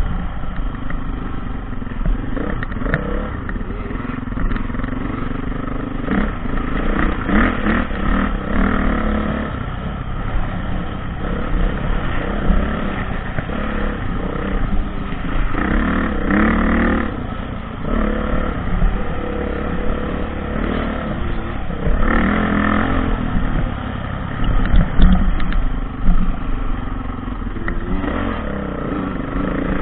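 Dirt bike engine running under changing throttle, revving up in several surges.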